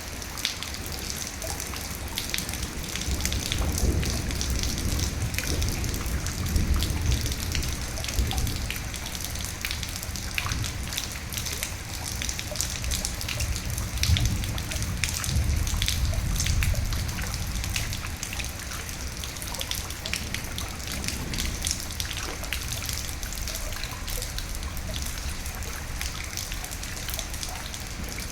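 Steady rain with many individual drops ticking, and a low rumble of thunder swelling up twice, about four and fourteen seconds in.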